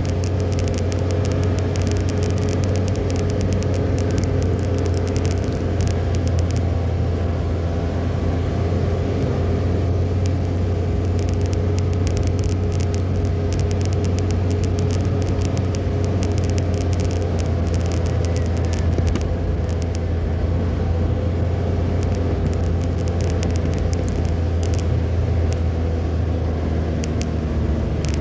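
Car on the road: steady engine and tyre rumble, with spells of rapid fine ticking from rain hitting the vehicle.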